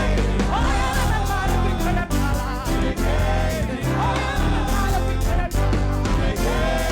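Gospel praise-and-worship music: a singer's voice sliding between notes over a live band with bass and steady drum hits.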